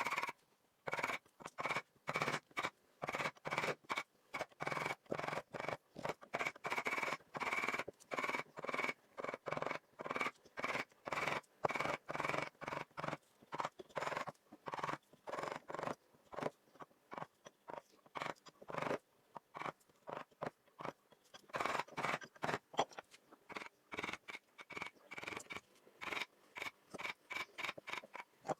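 A carving blade cutting and scraping wood in short strokes, often two or three a second at an uneven pace, each a brief rasping cut with a short pause between.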